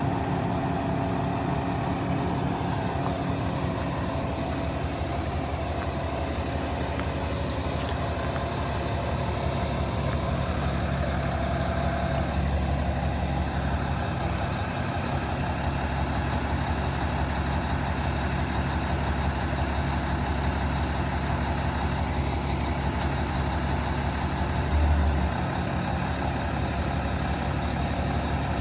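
Cummins 8.9 diesel engine of a Kenworth T370 truck idling steadily, with a brief low thump about 25 seconds in.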